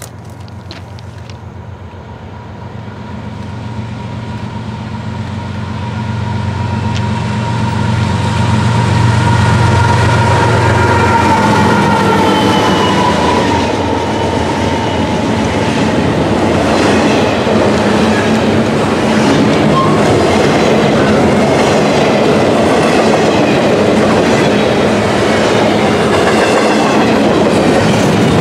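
Norfolk Southern double-stack intermodal freight train approaching and passing. The diesel locomotives' low engine drone grows louder over the first several seconds. A whine drops in pitch as the locomotives go by, about 11 to 14 seconds in. After that comes a steady rumble and clatter of container well cars' wheels rolling over the rails.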